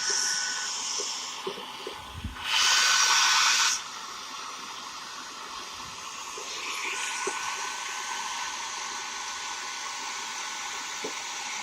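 Hair dryer blowing steadily with a hiss, heating a motorcycle headlamp so its lens can be prised off; it gets louder for about a second, roughly three seconds in.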